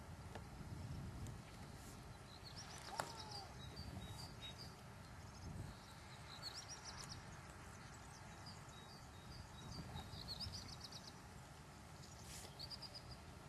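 Quiet open-air background with a low rumble, over which a small songbird sings short, high, rapid trills four times.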